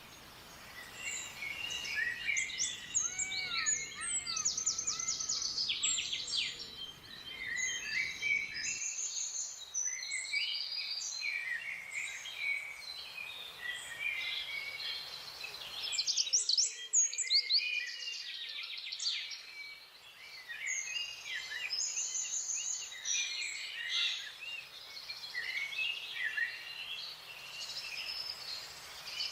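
Several wild birds calling and singing at once, a dense mix of chirps, rapid trills and short whistles overlapping throughout. A low background hiss drops away abruptly about nine seconds in.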